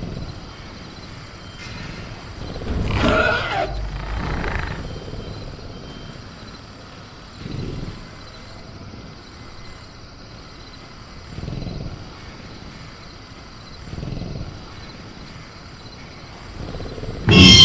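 Sound-effect velociraptor growls: a loud call with a wavering pitch about three seconds in, then softer low growls every few seconds, over a steady chorus of crickets. A sudden loud burst near the end.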